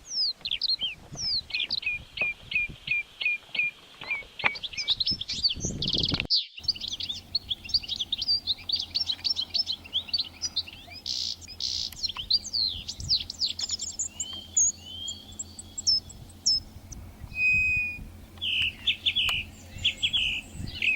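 Small birds chirping: quick series of short, downward-sweeping chirps, with an abrupt break about six seconds in, then a denser mix of several different calls.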